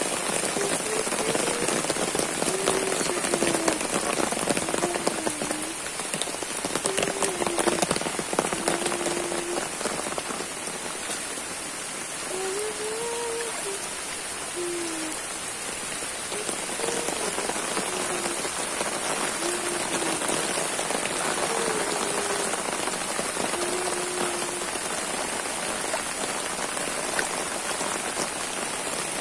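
Heavy rain falling on a flooded dirt path, a steady hiss and patter of drops hitting standing water and wet ground. A short wavering tone comes and goes every second or two over the rain.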